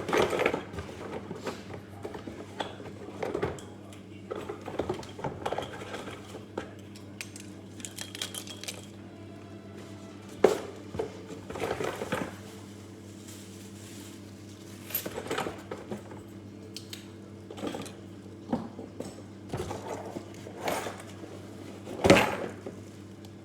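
Irregular clinks and knocks of metal tools and parts being handled during freezer repair work, over a steady low hum.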